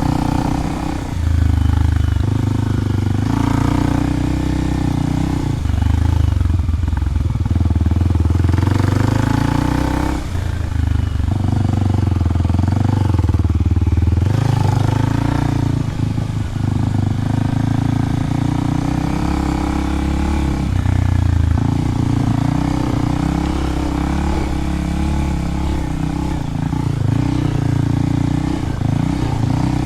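Kawasaki KLX300 single-cylinder four-stroke engine running through a Delkevic 10-inch oval slip-on exhaust, its revs rising and falling, with a few brief dips.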